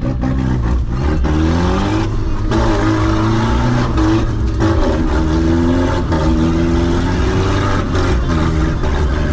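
Vehicle engine revving hard, its pitch climbing and dropping back several times as it works.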